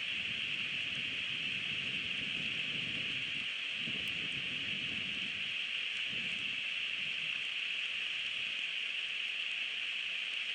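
Steady rain falling, an even hiss, with a low uneven rumble that comes and goes over the first several seconds.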